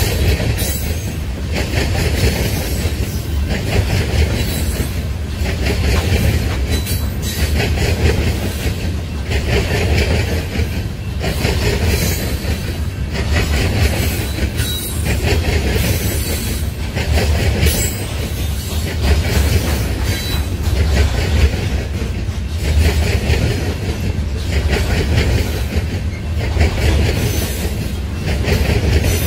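Empty coal hopper cars of a freight train rolling past: a steady deep rumble, with wheels clattering in a repeating rhythm about once a second as the trucks pass over the rail joints.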